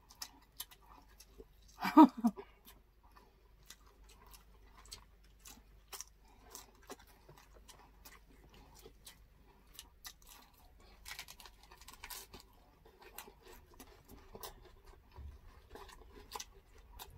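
Close-miked chewing and mouth sounds of people eating grilled pork and chicken with their hands, with many small wet clicks and smacks. A brief hum of a voice about two seconds in.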